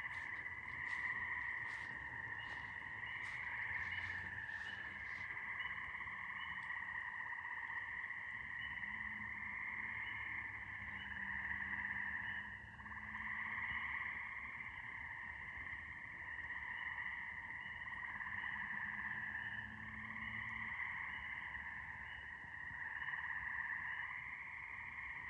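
A steady, dense chorus of frogs trilling, with a separate higher chirp repeating about twice a second over it.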